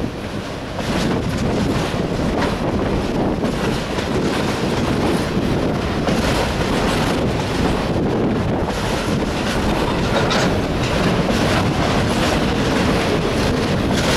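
Freight cars, enclosed autoracks, rolling past close by on steel wheels, with a continuous rumble and clattering wheel clicks over the rail.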